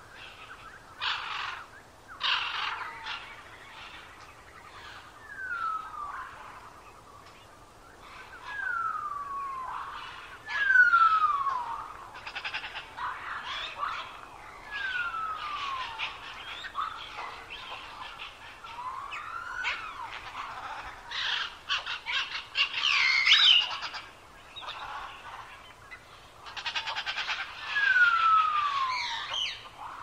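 Several wild birds singing and calling. A clear whistle slides down in pitch about once every few seconds, over short chips and chattering calls from other birds.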